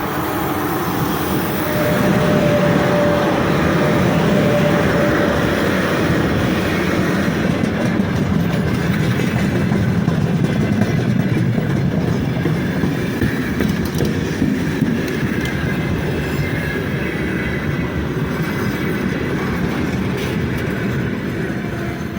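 Freight train wagons rolling past under service braking, a steady rail rumble with wheels clacking over rail joints and a thin squeal in the first few seconds.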